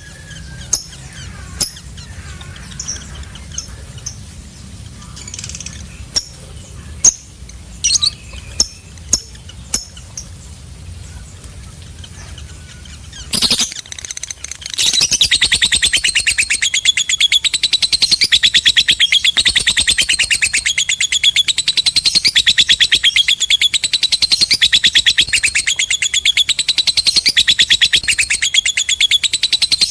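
Lovebird giving scattered short chirps, then about halfway through breaking into a long, fast, unbroken chattering trill, louder than the chirps: the long 'ngekek' call.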